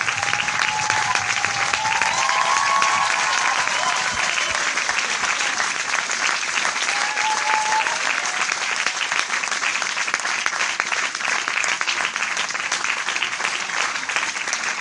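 Large audience applauding with dense, steady clapping. A few faint voices rise from the crowd early on and again near the middle.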